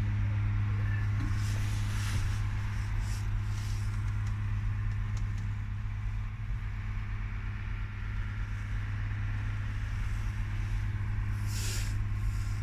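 Howo 6x4 tractor truck's diesel engine running steadily with a constant low hum, and a brief hiss near the end.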